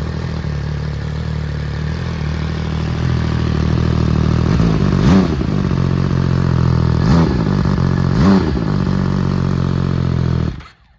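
MV Agusta Brutale Dragster's three-cylinder engine idling through an aftermarket QD end silencer, with three short throttle blips about five, seven and eight seconds in. The sound cuts off near the end.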